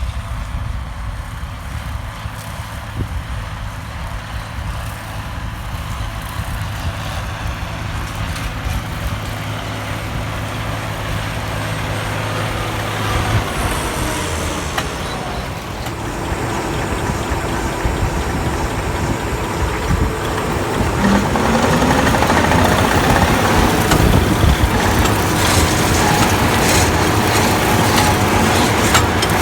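John Deere 7130 tractor's diesel engine running steadily while pulling a brush hog. It grows gradually louder and rises noticeably about twenty seconds in.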